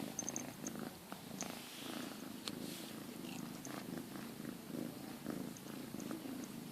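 Domestic cat purring softly and steadily, with faint scattered clicks from the cat licking.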